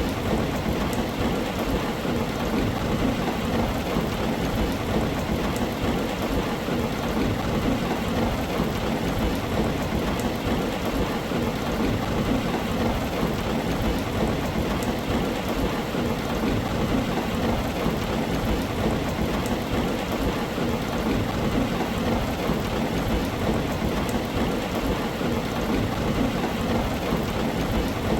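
Heavy rain falling steadily on a tin roof, an even, unbroken patter with no single thunderclap standing out.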